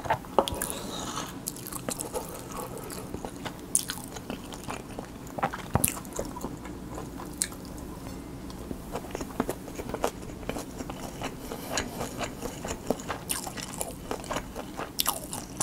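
Close-miked chewing of a mouthful of Spam kimchi fried rice: wet mouth sounds with sharp, irregular clicks, several a second.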